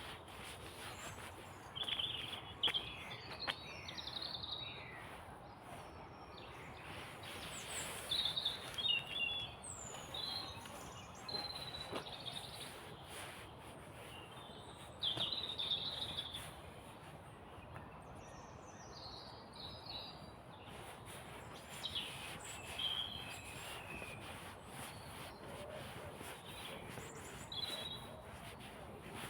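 Small songbirds singing in woodland: short, high chirping phrases every few seconds from more than one bird, over a steady outdoor hiss. There is soft, repeated ticking of footsteps underneath.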